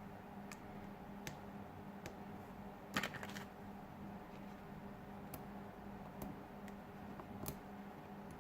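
Scattered light clicks and taps of small repair tools on a smartphone's parts, with a brief rattling cluster of clicks about three seconds in and another sharp click near the end. A steady low hum runs underneath.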